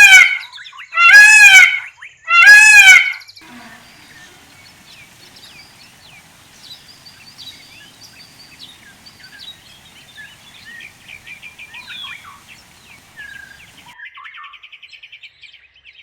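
Peacock calling: three loud, arching calls about a second and a half apart. They are followed by faint twittering of small birds, with a fast trill near the end.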